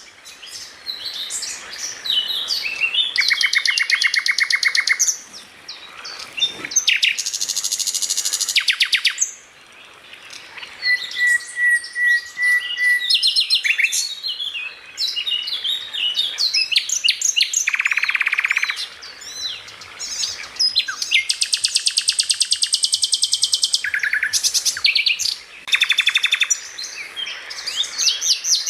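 A songbird singing a long, varied song of fast trills, rapidly repeated notes and short whistled phrases, with a few brief pauses.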